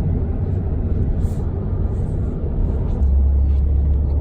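Steady low rumble of road and engine noise inside a moving car's cabin, growing a little louder about three seconds in.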